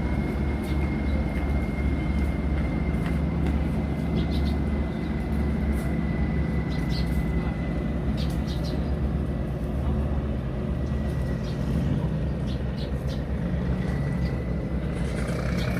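Engines running with a steady low drone, a thin high whine above it and scattered bird chirps.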